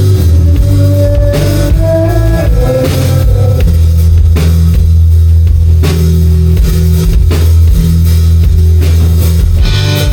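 Live rock band playing loud, with guitar and bass over a steadily hit drum kit.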